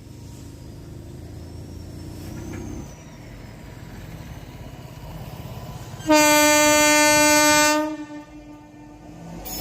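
Horn of a WAG-9HC electric freight locomotive sounding one long blast about six seconds in, lasting under two seconds, over the low rumble of the approaching train.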